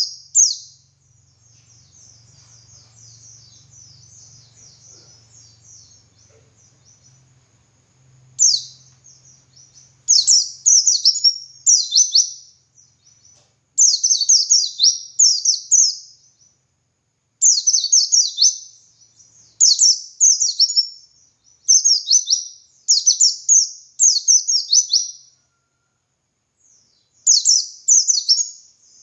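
White-eye (pleci) singing. A soft, rapid, high twittering runs for the first several seconds, then come loud, high, chattering phrases about half a second long, repeated about once a second in runs with brief pauses.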